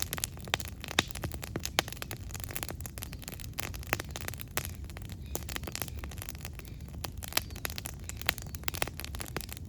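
Wood campfire crackling: frequent, irregular sharp pops and snaps of burning wood over a low, steady rumble of the fire.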